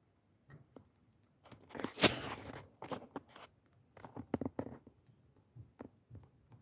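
Small wood fire crackling: irregular sharp pops and snaps, with a dense flurry of crackles about two seconds in, the loudest snap among them, and another flurry past the middle.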